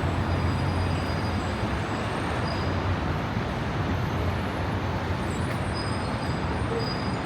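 Steady low vehicle hum with an even rushing noise and no sudden events.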